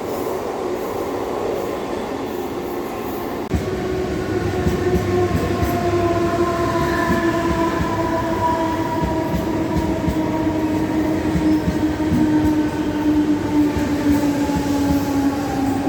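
Mumbai suburban local electric train running, heard on board: a steady rumble of wheels on rail under a motor whine of several tones that slowly falls in pitch. A single knock comes about three and a half seconds in, and the running gets a little louder after it.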